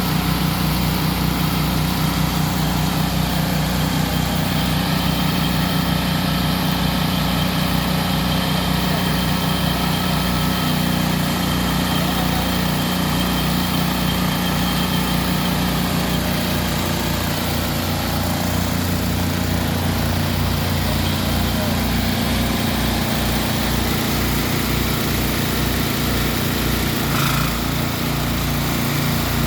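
An engine idling steadily, with a pulsing beat low in the sound and a slight change in tone near the end.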